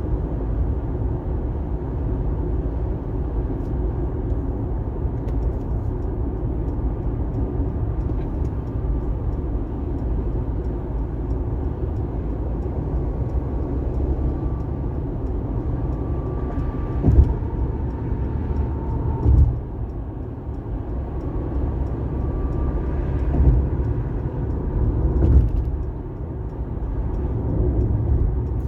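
Steady low rumble of a car driving on a rain-wet highway: tyre and engine noise, with a few short thumps in the second half.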